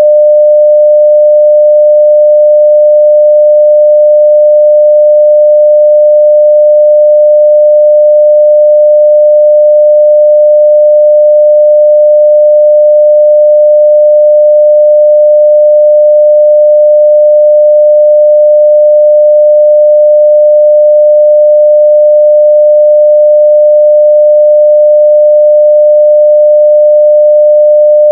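Pure 600 Hz sine-wave test tone at full level (0 dB), a single steady pitch held without change.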